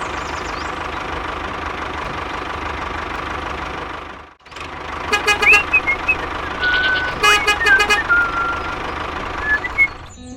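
Vehicle engine running steadily, then after a short drop a run of short horn toots and beeps over the engine, with a few gliding tones among them.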